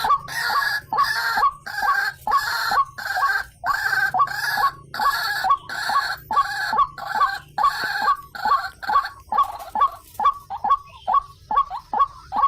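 White-breasted waterhen (ruak-ruak) calling: a run of harsh, croaking calls about twice a second. About nine seconds in, these give way to quicker, cleaner 'kwak' notes about three a second.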